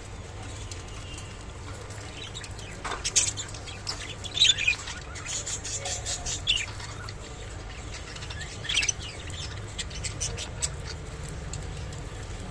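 Budgerigars chirping in short, scattered calls, mixed with brief clicks and rustles, over a steady low hum.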